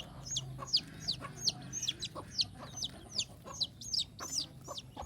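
A baby chick peeping over and over, about three short, high, falling peeps a second: the distress calling of a chick that has got stuck and is cut off from its mother hen.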